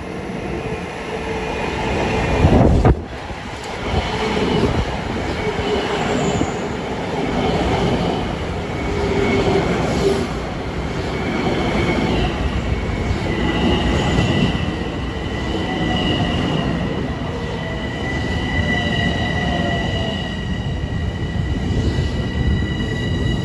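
Long Island Rail Road train running through the station, with a steady rumble of wheels on the rails. A loud surge cuts off abruptly about three seconds in. From about halfway a high, steady squeal holds on.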